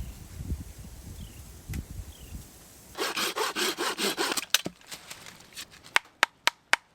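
Saw cutting firewood in a quick run of back-and-forth strokes, about five a second, starting about three seconds in and lasting a second and a half. Low dull thumps come before it and a few sharp wooden knocks after it.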